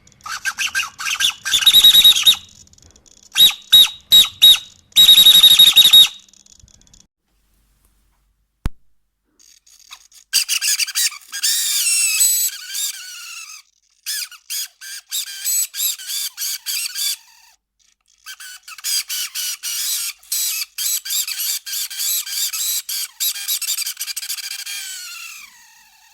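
Savöx SC-1256TG digital servo whining loudly in high-pitched bursts as it drives back and forth, with short pauses between movements and the pitch sliding down as some bursts end. The noise comes from a dry servo motor bearing, not from the gears, and a drop of bearing oil in the motor cures it.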